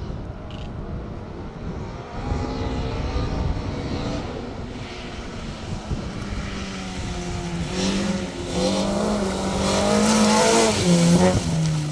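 Mk2 Ford Escort rally car's 2.0-litre Toyota Beams four-cylinder engine driven hard, revs climbing and dropping back through gear changes. It grows louder and peaks near the end, then the pitch drops.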